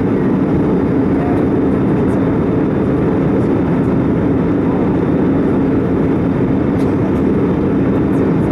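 Steady cabin noise of an Airbus A320 in flight: a constant rush of airflow and engine drone with a low steady hum.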